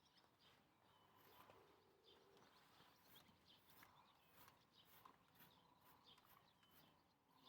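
Near silence, with a series of faint soft clicks about every half second to second from about two seconds in.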